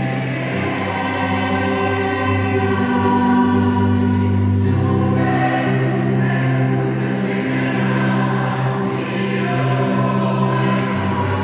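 A choir singing in parts, holding long sustained chords that shift together every second or two.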